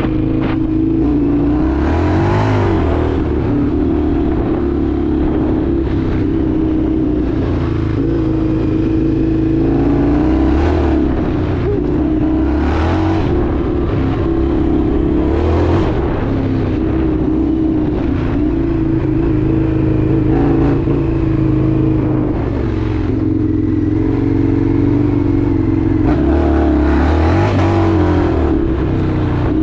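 Indian FTR 1200's V-twin engine running under way, its revs rising and falling several times as the rider accelerates and eases off.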